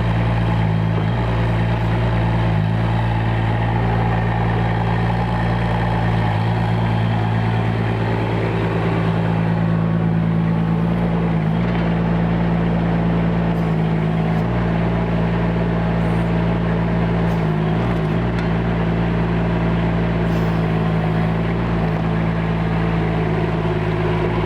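Chinese mini excavator's engine running steadily, with a few light knocks along the way.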